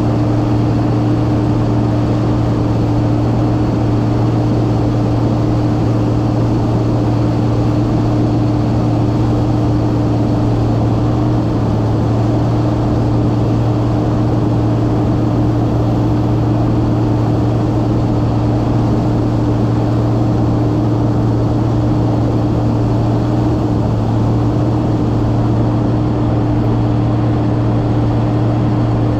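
Massey Ferguson 9690 combine running steadily while shelling corn: a constant low drone with a steady hum line above it, unchanging throughout.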